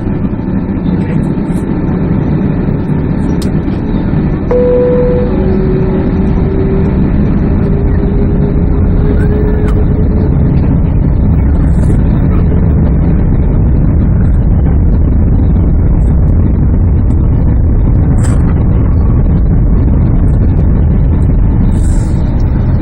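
Steady loud rumble inside the cabin of a Boeing 767-300 airliner taxiing, with engine and ventilation noise. About four seconds in the level steps up slightly, with a brief tone and a faint whine lasting a few seconds.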